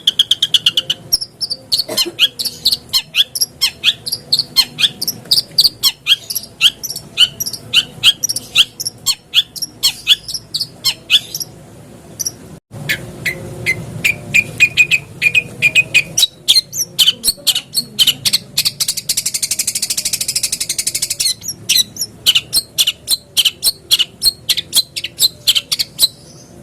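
Long-tailed shrike (cendet) song: a fast, unbroken run of sharp, high chirps at several a second. About two-thirds of the way in there is a harsh, rasping stretch lasting about two seconds.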